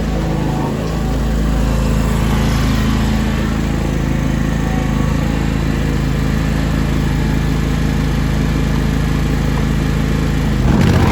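John Deere X720 garden tractor's liquid-cooled two-cylinder Kawasaki gasoline engine running steadily. Just before the end, the engine note changes and gets louder.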